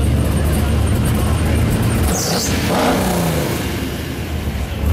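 Car engines running with a deep low rumble as parade cars drive by; about two seconds in, one passes with its pitch dropping, and another engine rumble comes back near the end.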